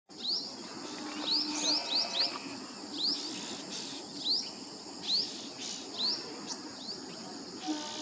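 A bird giving short, sharp high chirps, about a dozen at uneven intervals, over a steady high hiss of insects.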